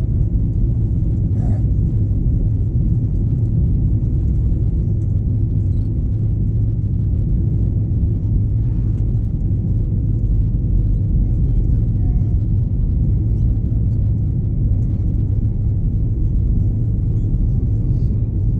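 Steady, loud low rumble of an Airbus A321 passenger cabin in flight, heard from a window seat in the rear cabin.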